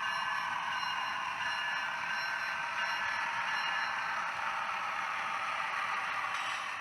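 HO scale model train running along the layout's track, a steady mechanical rolling and running noise that eases off slightly near the end.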